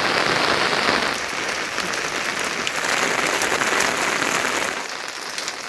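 Heavy rain coming down: a dense, even hiss of drops hitting surfaces, easing a little near the end.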